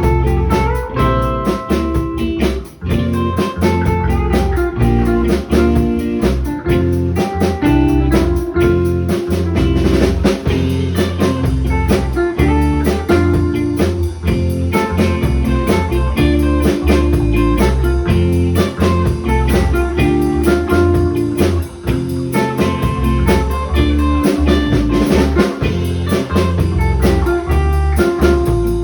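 Live band playing a pop ballad: a guitar picks out the melody over a drum kit keeping a steady beat and a bass line. The guitar is a Hallmark.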